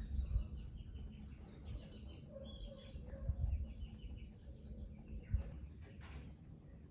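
Small birds chirping over a steady high insect drone, with a few dull low thumps.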